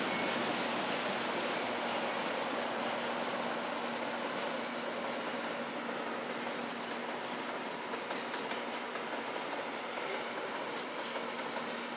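Iron ore freight train wagons rolling past, a steady rumble with a constant hum under it. Faint clicks of wheels over the rail joints come through in the second half.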